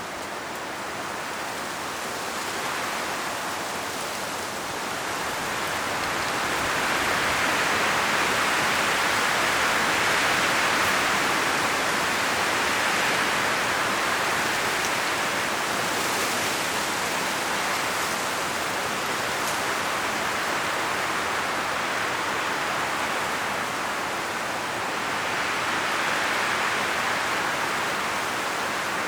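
Strong wind blowing through forest trees, a steady rushing of leaves that swells in gusts, louder from about six to twelve seconds in and again near the end.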